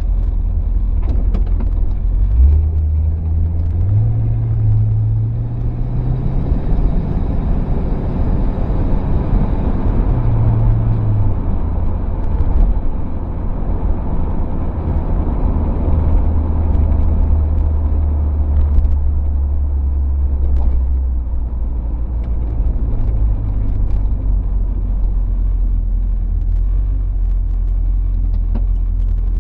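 1968 Ford Torino GT's V8 engine and exhaust heard from inside the open cabin with the top down, the engine note climbing a few seconds in as the car accelerates away, then settling into a steady cruise with a brief rise partway through. Wind and tyre noise run under it.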